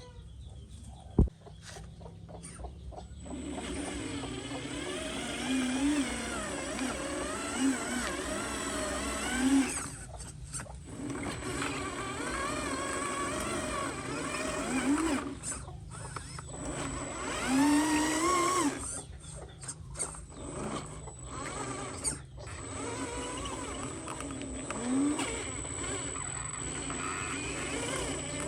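Small electric motors and gearboxes of radio-controlled model construction vehicles whining, the pitch rising and falling as they speed up and slow down, over a steady high-pitched whine. The whine is quieter for the first three seconds and dips briefly around 10 and 16 seconds.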